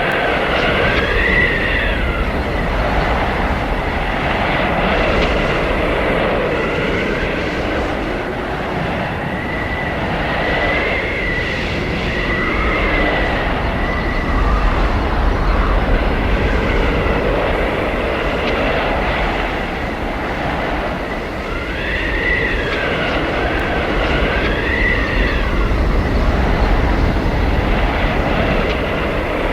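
Blizzard wind howling: a steady roar of gusting wind with high whistling tones that waver up and down, coming in spells near the start, about ten seconds in and again past twenty seconds.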